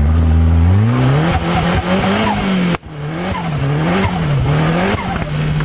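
Locost kit car's turbocharged Nissan CA18DET four-cylinder engine revving hard. The revs climb, then rise and fall over and over as the throttle is worked. A brief break comes near the middle, and the revs hold steady near the end.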